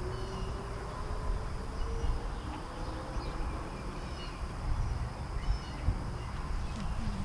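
Birds chirping here and there in woodland, with short calls scattered throughout, over a low outdoor rumble.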